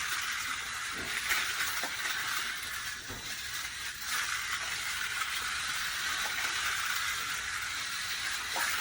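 Small battery-powered toy race cars running along a flexible plastic track, a steady whirring, rattling hiss of tiny motors and wheels on the plastic segments.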